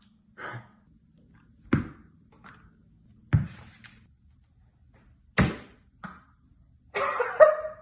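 Three sharp thuds, one to two seconds apart, with softer knocks between them, then a busy jumble of sound near the end.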